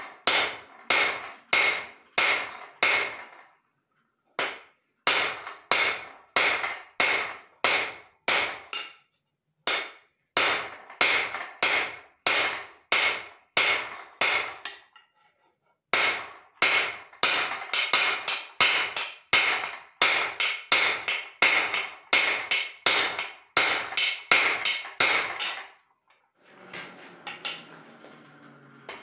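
Hand hammer striking leaf-spring steel on an anvil, about two to three ringing blows a second in runs of several seconds with short pauses between. Near the end the hammering stops and a quieter steady noise takes over.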